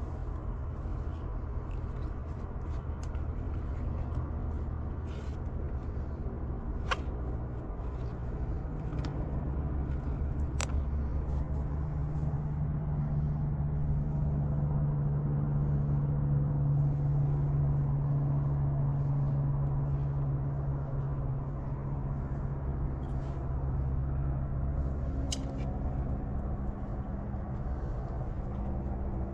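A motor vehicle's engine running as a steady low rumble, its low hum growing louder through the middle and easing off again, with a couple of faint sharp clicks early on.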